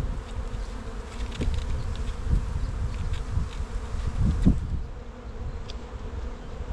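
Honeybees buzzing around an opened hive, a steady hum from agitated bees that are not too happy at being disturbed, with wind rumbling over the microphone.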